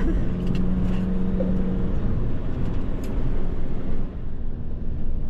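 Car driving, with a steady low rumble of engine and road noise; a steady low drone in it fades out about two seconds in.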